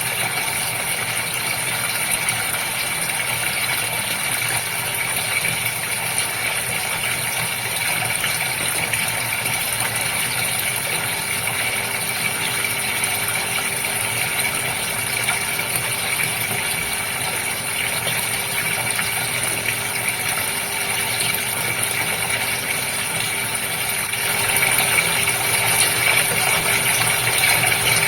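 Goldfish aquarium running steadily: water moving with a constant motor hum from the tank's pump, a little louder near the end.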